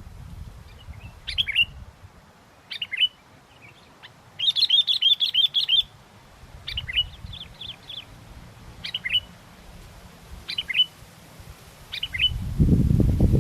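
Sooty-headed bulbul calling: short whistled chirps in ones and twos, with a quick run of about ten notes about four seconds in. Near the end, strong wind starts buffeting the microphone in a loud low rumble.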